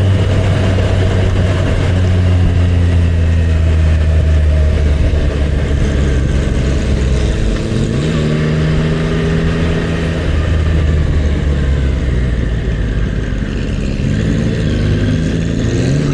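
Motorcycle engine running while riding, with a steady hum under a haze of wind and road noise. About halfway through the engine note shifts, and it rises again near the end as the throttle is opened.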